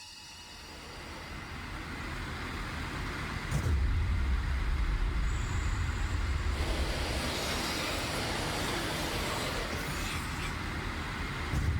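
A dense rumbling noise swells up from near quiet. A heavier deep rumble comes in about three and a half seconds in, and the hiss turns brighter a few seconds later.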